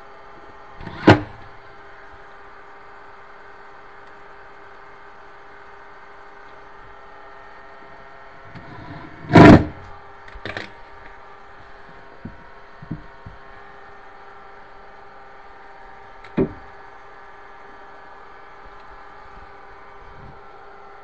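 A few sharp knocks and clunks from work on kitchen cabinet hardware, the loudest about a second in and about nine seconds in, with smaller ones after, over a steady hum.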